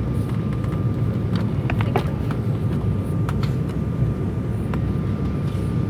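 Steady cabin drone of an Embraer 195 jet airliner in flight, its turbofan engines and airflow making a continuous low rumble. A thin steady high tone runs through it, and a few small clicks sound about one and a half to two seconds in.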